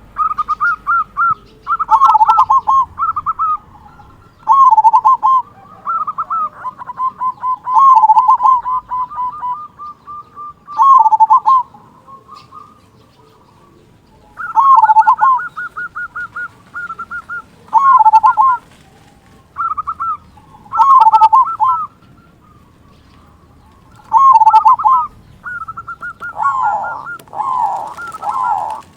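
Local zebra dove (perkutut) cooing: phrase after phrase of quick high notes ending in a lower, dipping coo, with short pauses between. Near the end a run of lower repeated notes follows.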